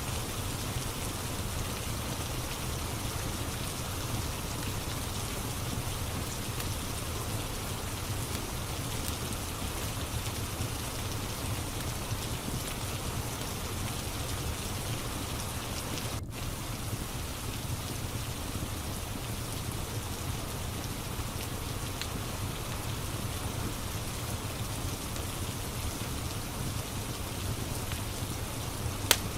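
Steady rain falling, an even hiss and patter, with one sharp pop near the end.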